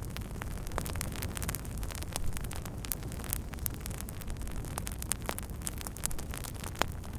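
Open fire crackling, with many sharp irregular pops over a steady low rumble of the flames.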